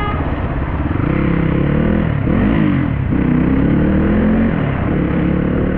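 Dirt bike engine pulling under throttle: its pitch climbs, drops and swoops about halfway through, as if through a gear change, then climbs again and eases off near the end.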